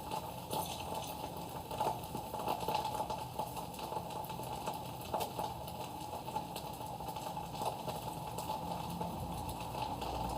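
Pot of dal and rice reheating on the stove, bubbling and sizzling as it starts to catch on the bottom: a steady hiss with scattered small pops.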